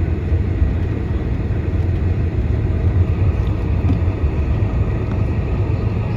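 Steady low rumble inside the cabin of a Boeing 747-400 taxiing on the ground: the engines at taxi thrust and the cabin air system, with a constant low hum.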